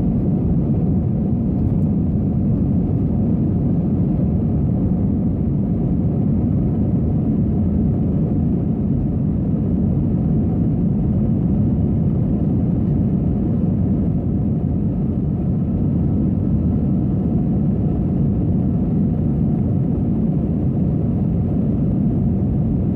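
Steady low cabin roar of an Airbus A321 in its climb after take-off: engine and airflow noise heard from inside the passenger cabin, even in level throughout.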